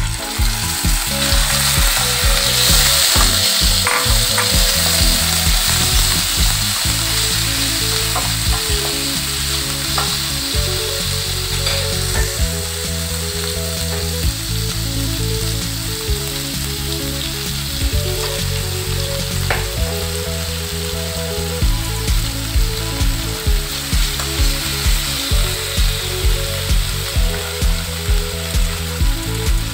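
Thin slices of raw beef searing in hot oil with fried chopped garlic in a non-stick frying pan, sizzling steadily, with a few sharp clicks.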